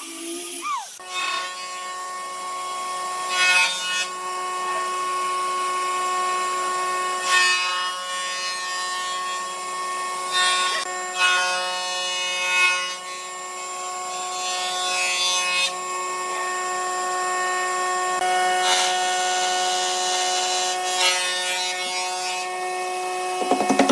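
Electric power tool running at a steady pitch, with several short bursts of louder noise as it cuts into wood.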